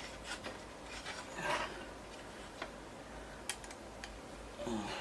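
Cables and small plastic connectors being handled inside a desktop PC case: scattered light clicks, with a brief rubbing scrape about a second and a half in.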